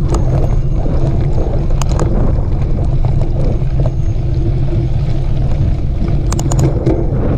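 Steady low rumble of wind buffeting the microphone of a camera riding along on a mountain bike over dirt trail, with a few sharp rattling clicks about two seconds in and again near the end.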